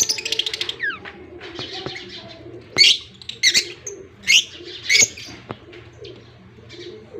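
Budgerigar chicks calling: a rapid raspy chatter at first, then four loud short squeaky calls under a second apart, over a low steady hum.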